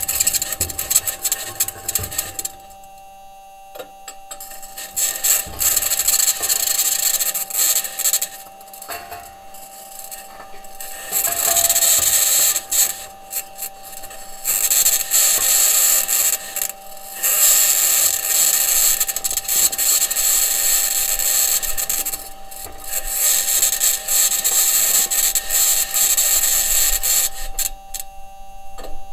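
Perseverance Mars rover's wheels and suspension grinding over the ground, recorded unfiltered by its microphone. A harsh, high-pitched scraping noise comes in stretches of several seconds with short pauses between them, over a steady thin tone.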